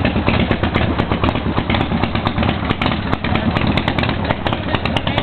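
Custom-built motorcycle's carburetted engine idling loud and steady with a fast, uneven pulse just after a cold start, running on the carburettor enrichener.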